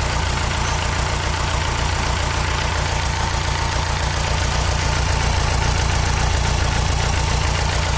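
An engine running steadily at idle, with an even low pulsing and a thin steady whine above it.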